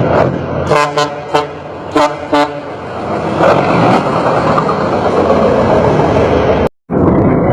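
A truck engine running loudly with a series of short horn toots, about five blasts in quick succession in the first half. The sound cuts out briefly near the end.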